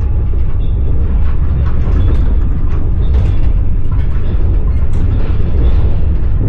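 Passenger train running on the rails, heard from inside the carriage: a steady low rumble of the wheels with scattered light clicks and knocks.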